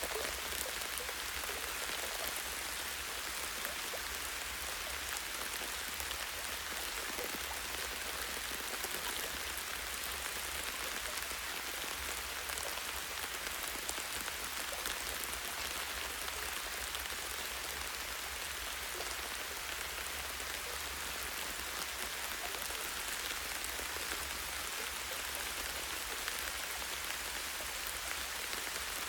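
Light rain falling steadily, countless small drops ticking on a tree branch, with no let-up.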